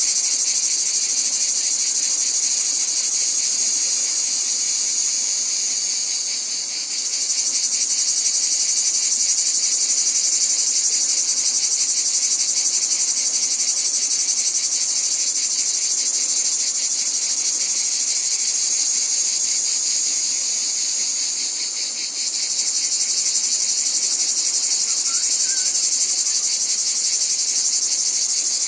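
A dense, steady chorus of insects trilling shrilly at a high pitch, with fast fine pulsing. It dips briefly twice, about seven seconds in and again about twenty-two seconds in, then comes straight back.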